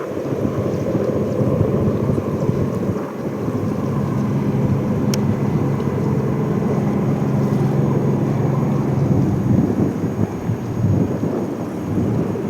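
Airbus A320-214's CFM56 jet engines rumbling loudly as the airliner passes on its landing, with a low drone held through the middle and wind buffeting the microphone.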